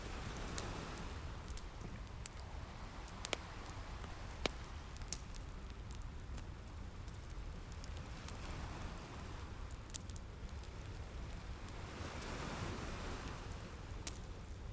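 Wood fire crackling, with scattered sharp pops, over ocean waves washing in slow swells and a steady low rumble of surf.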